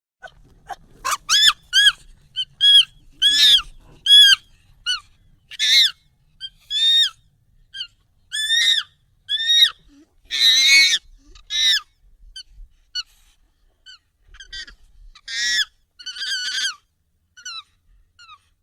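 Monkey calls, sped up and raised in pitch: a long irregular series of short, high calls that rise and fall in pitch, with a few harsher screeches among them, the loudest about ten seconds in.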